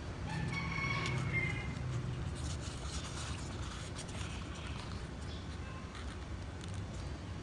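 Birds chirping a few times in the first two seconds over a steady low hum, with scattered light clicks and taps.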